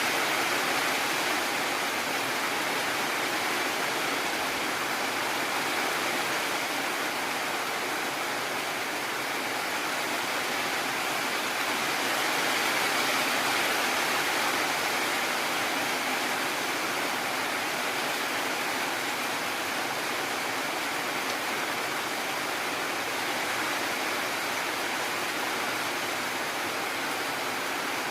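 Heavy rain falling steadily, an even rushing hiss with no thunder or single drops standing out.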